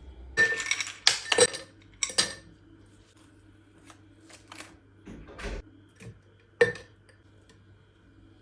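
Dishes and utensils clattering: a quick run of knocks and clinks in the first couple of seconds, then a few scattered single clinks.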